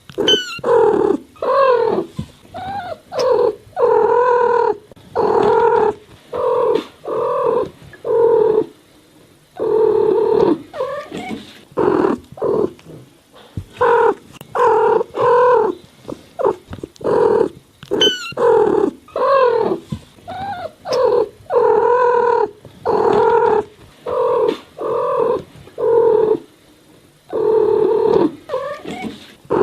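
Cat meowing over and over: a steady string of short meows about a second apart, each bending up and down in pitch, with a couple of brief pauses.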